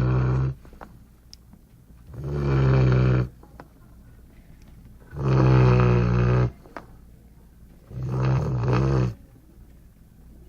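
Golden retriever snoring in its sleep: loud, rough snores about a second long, coming roughly every three seconds, with quiet breathing between.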